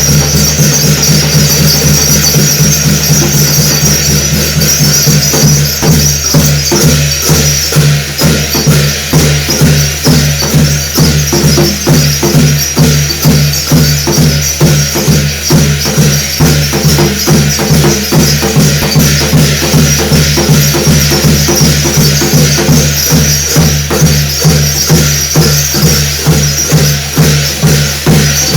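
Korean shamanic gut ritual music: drum and percussion with jingling, keeping a steady beat of about two strokes a second over a continuous shimmering ring and a steady low tone.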